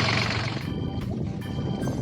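Iseki Geas AT340 tractor engine idling, fading down about half a second in as background music with short high notes takes over.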